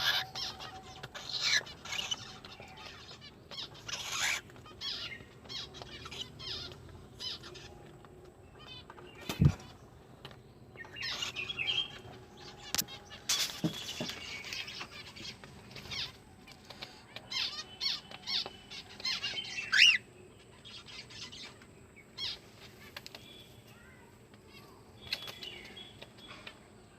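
A bird calling on and off with short chirps and whistles, along with scattered sharp flutters that sound like wing flapping.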